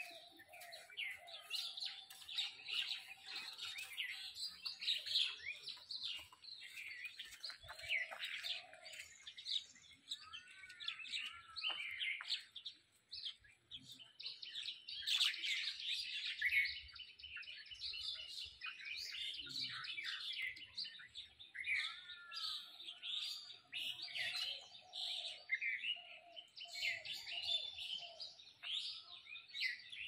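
Several small birds chirping continuously in a busy, overlapping chorus, with a few short runs of arched notes and some lower notes now and then.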